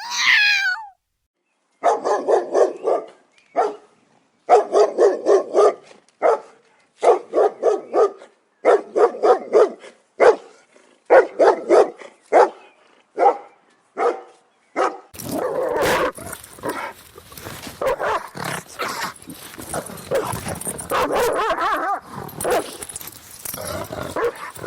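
Dog barking in quick runs of short barks, several a second, broken by brief pauses. From about fifteen seconds in the barking turns denser and noisier.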